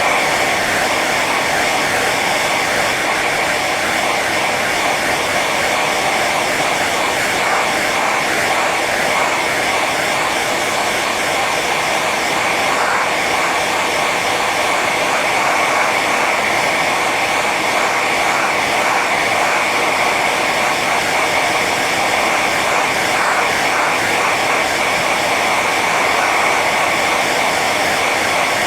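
Hair dryer running steadily on its high setting: a constant rushing blow of air with a steady whine over it.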